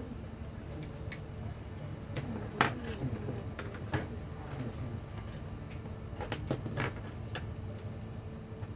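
Scattered sharp clicks and knocks of small hard objects being handled, the loudest about two and a half seconds in, over a steady low hum.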